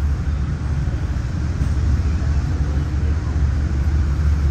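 Steady low rumble of a Metro-North commuter train rolling slowly along the platform as it arrives at the station, heard from on board.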